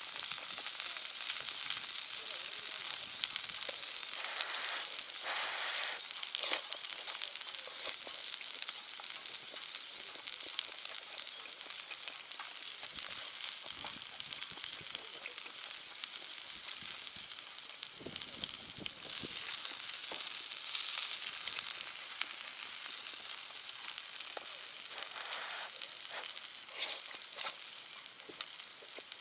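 Meat sizzling steadily on a cast-iron jingisukan grill pan heated over a wood fire, with occasional small pops and crackles.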